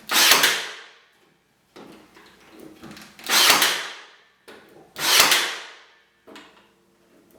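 A nail gun firing three times into pallet boards, each shot a sharp crack that fades away over most of a second, with quieter knocks of the boards being handled between shots.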